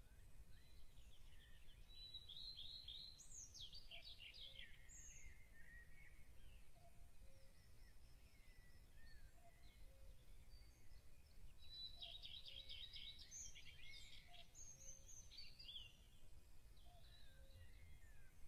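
Faint birdsong: small birds chirping, with two spells of rapid trilling, over a low steady rumble of background noise.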